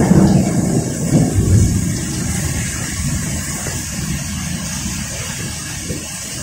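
Thunder rumbling and fading away over the first couple of seconds, leaving the steady hiss of heavy rain.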